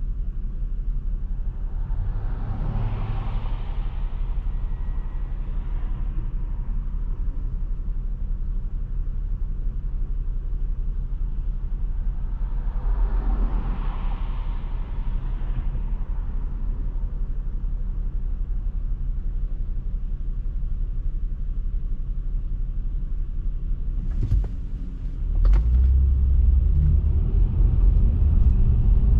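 Car driving, a steady low road rumble throughout. Twice the rushing noise swells up and fades over a few seconds. About 24 seconds in there are two sharp clicks, and after them the low rumble grows louder.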